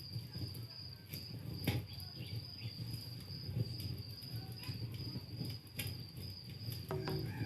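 Campfire crackling, with scattered sharp pops (a loud one about two seconds in), under a steady high-pitched cricket trill.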